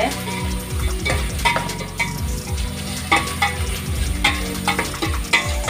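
Chopped spring onions sizzling as they fry in hot oil in a metal pot, while a metal spoon stirs them, scraping and knocking against the pot at irregular moments.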